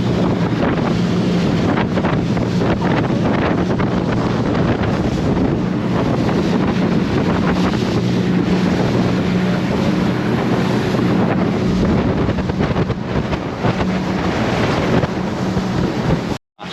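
Boat engine running with a steady hum under a loud rush of wind on the microphone and water noise. It cuts off abruptly just before the end.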